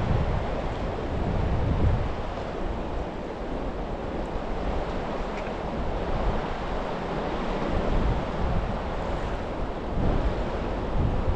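Steady rush of flowing river water, with wind buffeting the microphone in low gusts, strongest in the first two seconds and again near the end.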